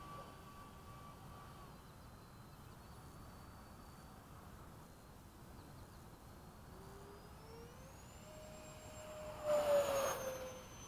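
Electric ducted-fan RC A-10 jet in flight, its fan whine gliding up in pitch as the throttle opens. About nine and a half seconds in it passes close with a louder rush, and the whine drops in pitch as it goes by.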